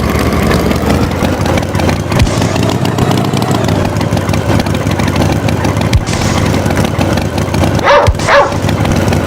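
Tractor engine running steadily as a cartoon sound effect, with a short animal call that falls and rises in pitch about eight seconds in.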